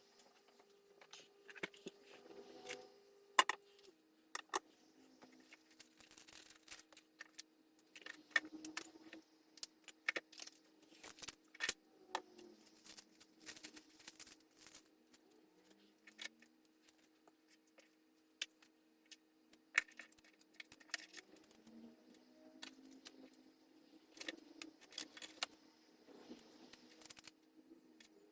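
Small household objects being handled and set down during cleaning: a string of faint clinks, clicks and knocks, with a faint steady hum underneath.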